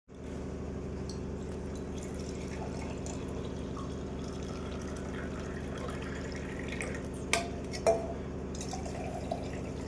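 A steady machine hum with liquid trickling, and two sharp clicks a little after seven and eight seconds in.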